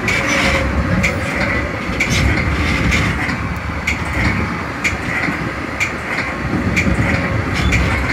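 Metra commuter train running at speed, heard from its cab car: a steady rumble and rush of wheel noise, with repeated sharp clicks from the wheels on the track.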